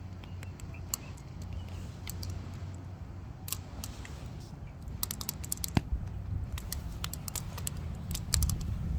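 Firewood burning, crackling and popping in quick, irregular snaps that come thicker in the second half, over a steady low rumble.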